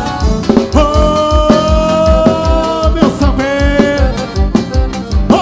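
Live forró band music: long held melody notes over a steady, quick low drum beat, with no words sung.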